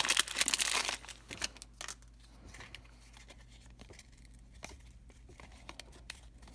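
Crinkling of a trading card pack wrapper for about a second, then faint ticks and rustles of trading cards being flipped through by hand.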